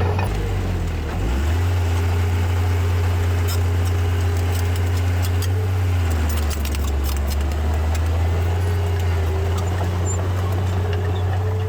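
Diesel engine of heavy earthmoving machinery running steadily with a deep hum. Its pitch dips about a second in and settles lower around six seconds in. Light clicking and rattling comes through in the middle.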